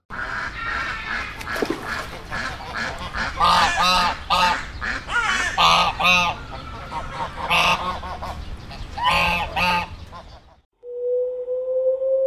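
A group of white domestic ducks quacking, the harsh calls coming in quick runs of two or three. It cuts off near the end, and a steady, even tone follows.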